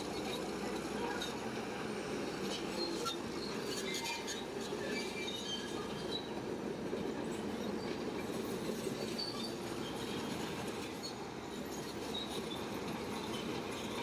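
Crawler bulldozer at work: a steady engine drone with the steel tracks squeaking and clinking in short, irregular high squeals.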